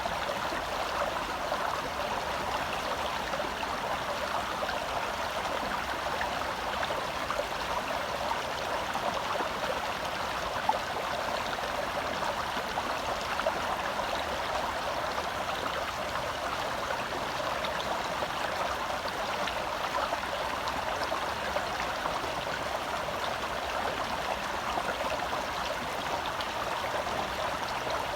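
Gentle forest stream flowing steadily over its bed, a continuous rushing, burbling water sound.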